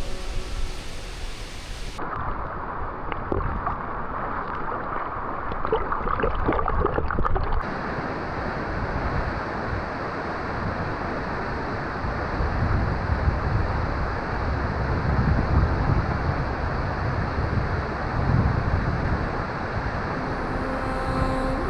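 Waterfall's falling water, a steady loud rushing. Its character changes abruptly about two seconds in and again near eight seconds.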